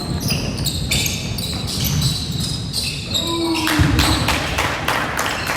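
Basketball game in a gym: the ball bouncing on the court amid players' shoe squeaks and crowd noise, with a brief shout a little after three seconds in.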